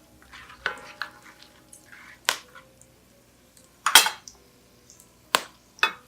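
A metal spoon clinking and knocking against a cooking pot, about six sharp strikes with the loudest about four seconds in, while whole spices are stirred as they fry in oil.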